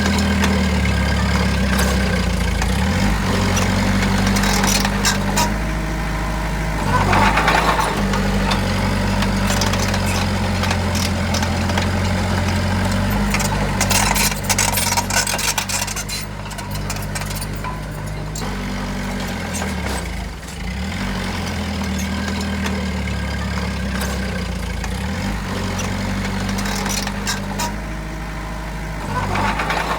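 Heavy construction machine's diesel engine running steadily at idle. There are brief swells of clattering noise about seven seconds in, again around fifteen seconds, and near the end.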